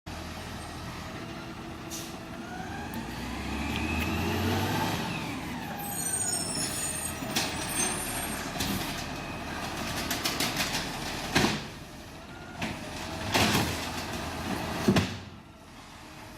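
Garbage truck engine running, its pitch rising and then falling a few seconds in, followed later by three short, sharp noises.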